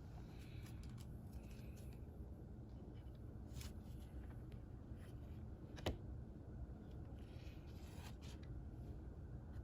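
Faint rustling and rubbing of paper and card as a 7-inch vinyl single and its sleeves are handled, with one sharp click about two-thirds of the way through.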